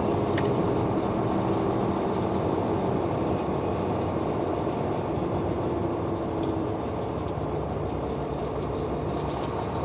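Truck engine running steadily with road noise, heard from inside the cab while driving.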